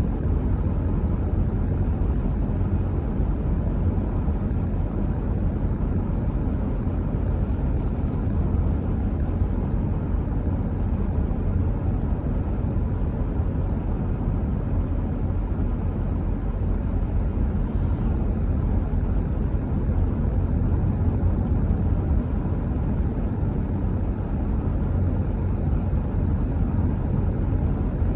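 Steady low rumble of a car driving at an even speed, with road and tyre noise.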